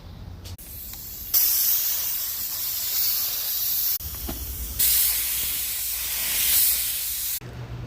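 Automotive paint spray gun spraying a bumper, a steady high hiss in two long passes of about two and a half seconds each, with a brief break between and abrupt starts and stops.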